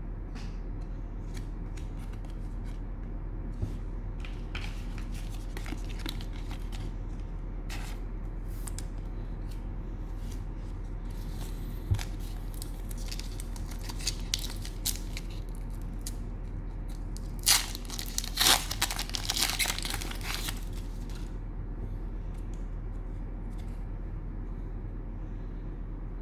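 Cellophane wrapper of a trading-card pack crinkling and being torn open, with scattered small rustles and clicks and a louder spell of tearing and crinkling about eighteen to twenty-one seconds in. A steady low hum runs underneath.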